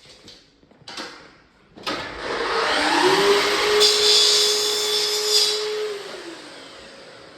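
Electric power-tool motor starting about two seconds in, rising to speed, running steadily for about four seconds with a brief harsher hiss in the middle, then winding down.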